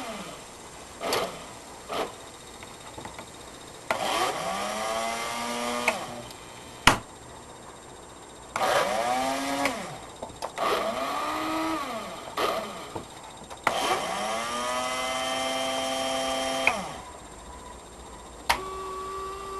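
Model train's small electric motor whining in repeated bouts, the pitch sweeping up as it speeds up, holding, then dropping as it slows. Sharp clicks come between the bouts.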